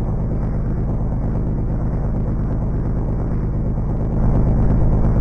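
A car running with a steady low rumble, which gets louder about four seconds in.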